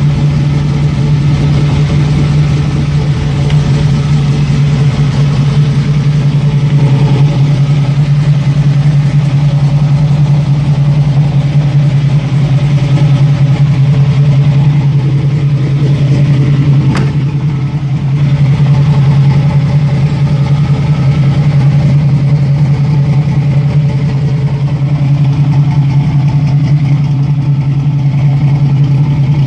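Chevrolet Camaro Z28's V8 engine idling steadily, with one brief click and a slight dip partway through.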